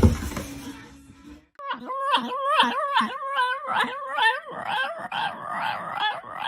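A dog howling and whining in a wavering, warbling voice, in a string of short, quickly rising and falling calls that starts about a second and a half in. Before it, a noisy stretch of sound fades out.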